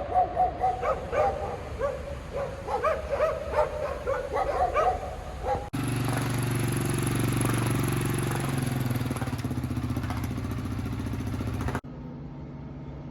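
A dog whining in short, repeated high cries. After a sudden cut, a motorcycle engine running steadily for about six seconds, then another cut to quieter sound.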